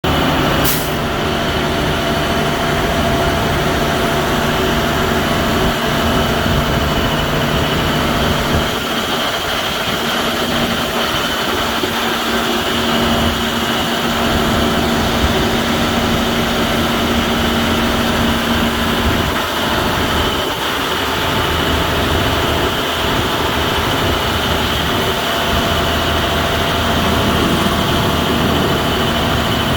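The 2010 International 4400 shredder truck running steadily, a continuous engine hum with a short click near the start. About nine seconds in, one of its low hum tones drops out while the rest keeps going.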